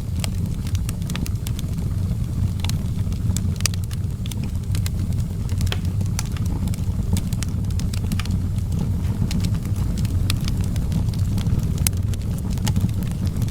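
Outdoor wood fire burning, with frequent irregular sharp crackles and pops over a steady low rumble.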